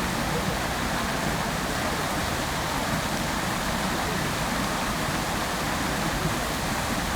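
Fountain water falling steadily into its basin: a constant, even rush of splashing water.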